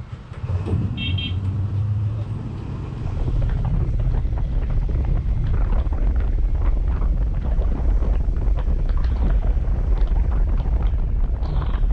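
Honda CB150X's single-cylinder engine running under way, with wind buffeting the microphone; the engine grows louder about three seconds in as the bike picks up speed. A short high beep sounds about a second in.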